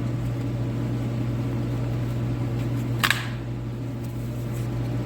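Overhead heater running with a steady low hum and fan noise. A single brief sharp click about three seconds in.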